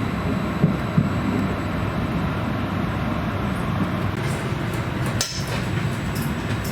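Regional passenger train running along the track: a steady low rumble with occasional sharp knocks and a brief hiss about five seconds in.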